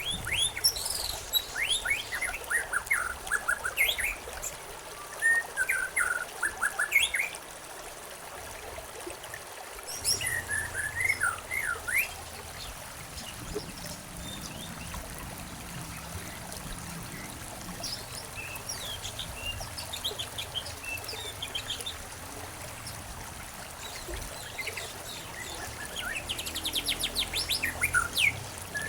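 Wild birds chirping in scattered bursts of short calls over the steady trickle of flowing water, with a quick run of rapid notes near the end.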